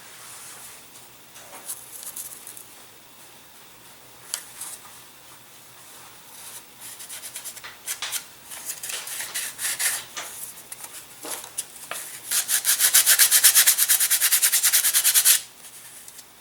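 Hand sanding of a model plane's small wing-mount parts. Scattered short scraping strokes come first, then about three seconds of fast, even back-and-forth strokes near the end that stop suddenly.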